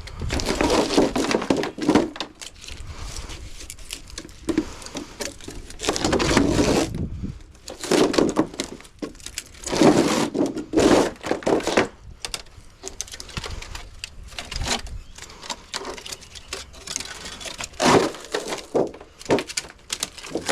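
Soft copper refrigerant tubing being pulled and peeled free from a freezer's inner panel and foil tape. Irregular cracking, tearing and knocking in uneven bursts.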